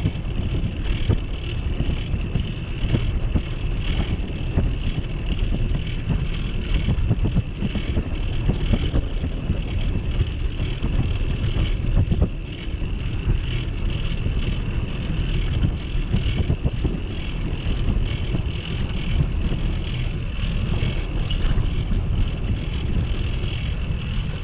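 Wind buffeting the microphone of a camera mounted on a moving bicycle: a steady, heavy rumble with a thin high hiss above it.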